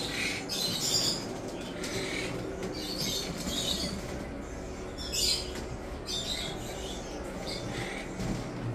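Small caged birds in an aviary giving short, high chirps and squawks, roughly one or two a second.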